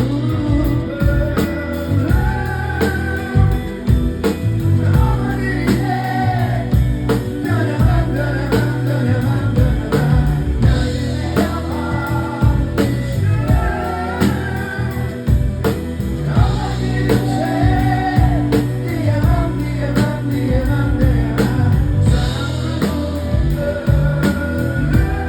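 Live rock band playing, with drums, bass and guitar keeping a steady beat under a sung melody without clear words.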